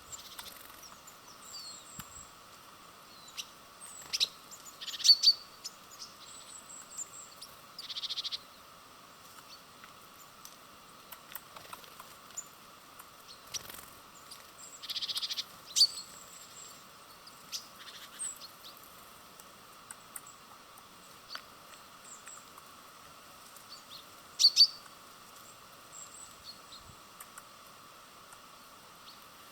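Small birds chirping at a bird feeder: scattered short high calls with a few louder bursts, over a faint steady hum.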